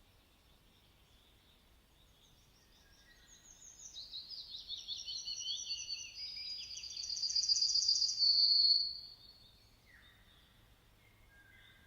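A songbird singing one long phrase of rapid, high trills. It starts a few seconds in, builds, and cuts off after about five seconds. A few fainter, lower chirps follow near the end.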